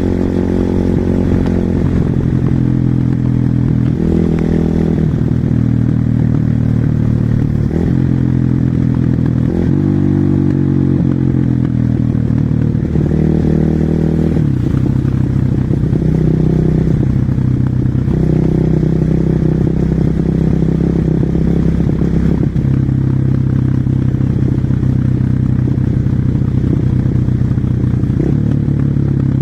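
Husqvarna SMR 450 supermoto's single-cylinder four-stroke engine under riding load, revs climbing and dropping repeatedly as the rider accelerates and shifts through the gears.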